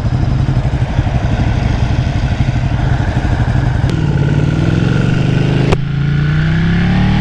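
Sport motorcycle engine under way with wind rushing past. The note holds steady, then climbs as the bike accelerates, and a sharp click a little past halfway marks an upshift before the pitch rises again.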